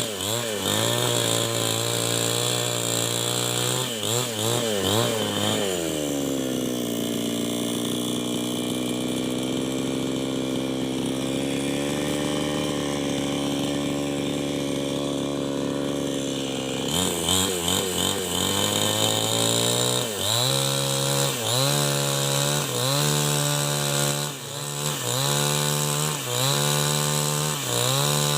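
Two-stroke New West 788 chainsaw running under load with a wavering pitch, cutting wood. About six seconds in its pitch glides down and it runs steadier at lower revs; about eleven seconds later it revs back up and cuts again, its pitch dipping and recovering every second or so.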